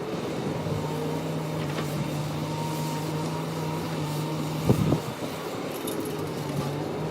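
An engine running steadily at one pitch, with a single knock about two-thirds of the way through.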